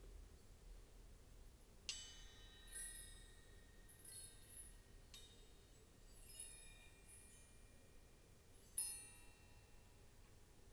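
Soft, high metallic chimes: three clear strikes, about 2, 5 and 9 seconds in, each ringing on, with lighter tinkling in between.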